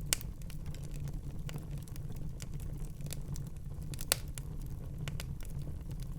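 Wood fire crackling in a fireplace: a steady low rumble of the burning logs with scattered sharp snaps, two louder pops just after the start and about four seconds in.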